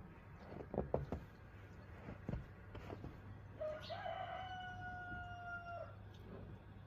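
A rooster crowing once, about four seconds in: one long held call lasting about two seconds. A few short clicks come earlier, over a faint steady low hum.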